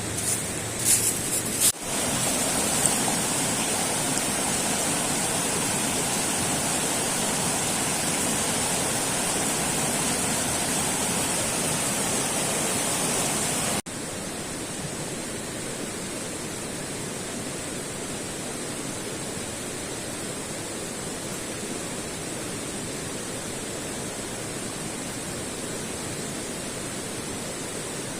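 Steady rushing noise of running water with no distinct events. It changes abruptly about two seconds in and again about fourteen seconds in, and is quieter after the second change.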